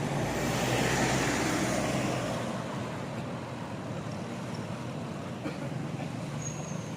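A motor vehicle passes close by, its noise swelling and then fading over the first two or three seconds. After that, steady road and traffic noise.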